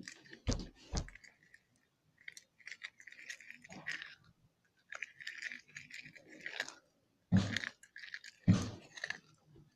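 Slime being stirred after activator is added: intermittent sticky, squishing stir sounds with two sharp clicks early and two loud knocks near the end.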